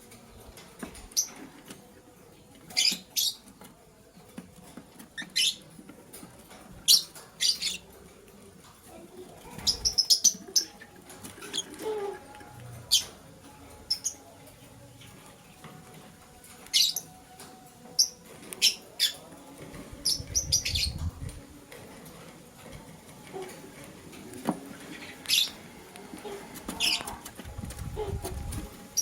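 Lovebirds giving short, sharp chirps at irregular intervals, with a quick run of chirps about ten seconds in. Soft low rustling comes in twice, near the middle and near the end.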